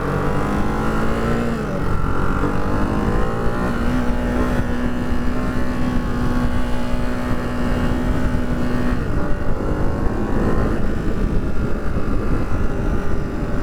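Ducati Hypermotard 698 Mono's single-cylinder engine pulling under way. The engine note climbs over the first few seconds, holds a steady pitch from about four to nine seconds in, then eases off, with wind rumble throughout.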